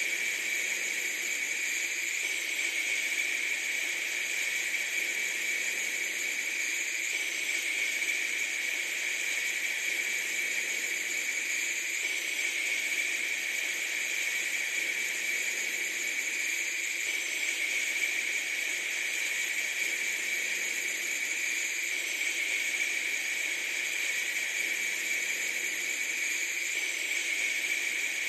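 Steady, even hiss with no breaks or changes in level.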